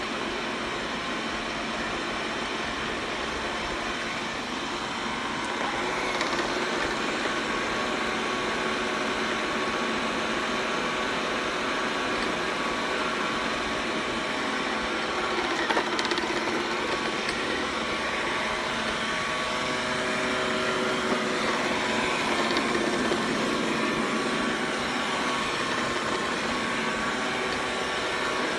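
Xiaomi robot vacuum running as it cleans, its suction fan and brushes giving a steady whirring hum with a few held tones, and one brief knock about halfway through.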